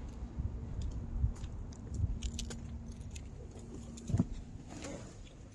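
Keys jingling, with scattered small metallic clicks and rattles. A faint steady hum runs underneath and stops with a click about four seconds in.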